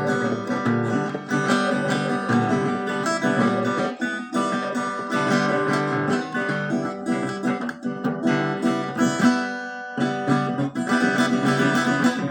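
Acoustic guitar music, plucked and strummed, easing off briefly about nine seconds in before coming back in full.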